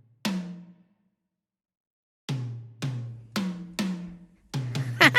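Heavy drum-like thumps, each dying away: one near the start, a pause, then a steady run of about two a second, coming faster near the end.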